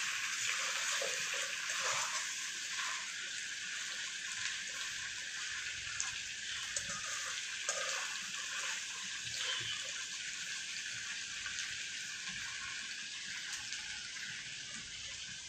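Small stuffed brinjals frying in hot oil in a stainless steel kadai: a steady sizzle, with a few light taps of the stirring spoon against the pan.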